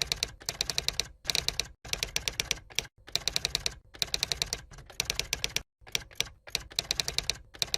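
Ciblek gunung singing in its rapid, drill-like 'ngebren' style. It gives quick trills of about ten sharp, high notes a second, in phrases of half a second to a second separated by brief pauses.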